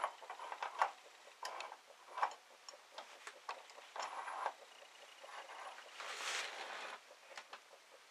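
Irregular clinks, taps and short scrapes of hand tools and small metal parts being handled during engine work, with a couple of longer rustling scrapes.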